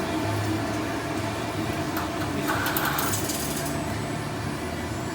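Steady low machinery hum, with a burst of metallic clicking and rattling from the tank's rigging gear for about half a second midway.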